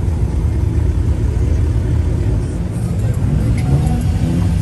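Car engine running with a heavy low rumble, its pitch climbing near the end as it starts to rev.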